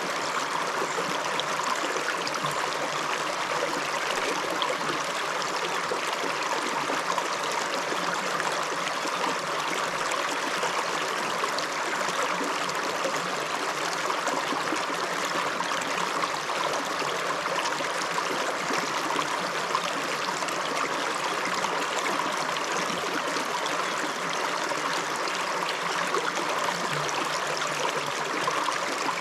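River water running steadily, a constant rushing and babbling of flowing water.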